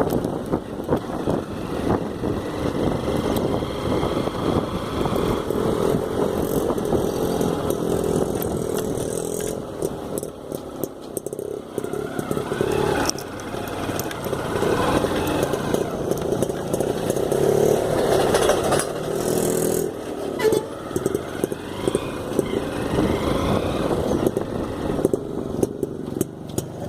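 Motorcycle engine running while riding, its note rising and falling with the throttle, with knocks and rattles from rough ground.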